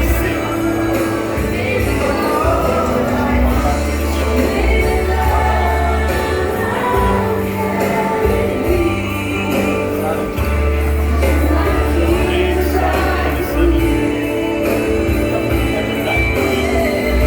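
Gospel worship music with singing over a band and a heavy, sustained bass line.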